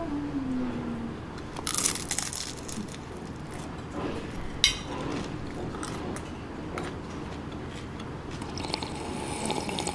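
Close-up eating sounds: biting into and chewing a crispy fried turon (banana spring roll), the fried wrapper crunching, loudest about two seconds in, with a sharp crackle near the middle.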